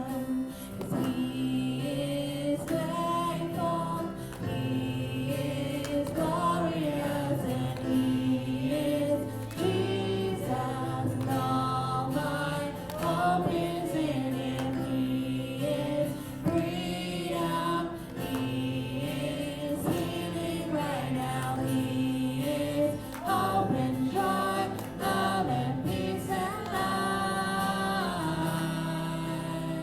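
Gospel song sung by a group of voices over sustained instrumental accompaniment.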